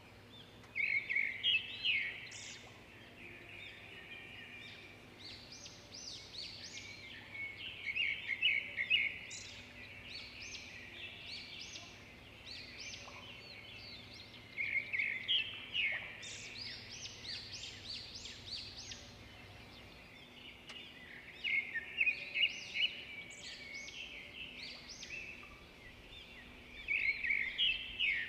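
Birds chirping in quick runs that come back in bursts about every six seconds, over a faint steady hum that stops about twenty seconds in.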